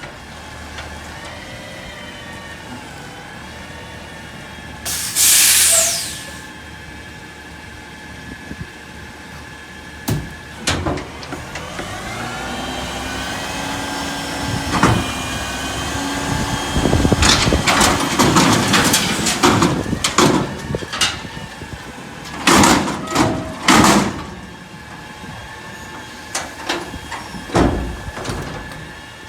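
Autocar garbage truck working a collection stop: the engine runs steadily, air hisses out sharply about five seconds in, a rising whine builds in the middle, and several rounds of bangs and clatter from the lifting arm and bin follow.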